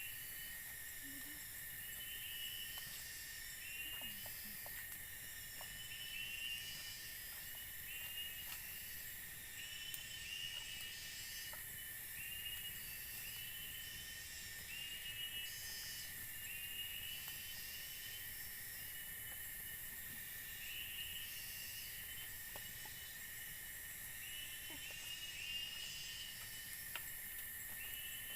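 Chorus of forest insects: a steady high drone, with a chirping call repeated about once a second over a fine high hiss.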